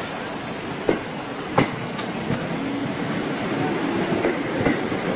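Passenger train rolling past close by over a steady rumble, its wheels knocking sharply over rail joints about a second in and again half a second later, then clacking more lightly.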